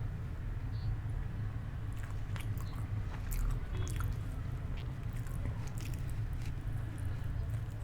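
A person chewing and biting food close to the microphone, with scattered irregular mouth clicks, over a steady low hum.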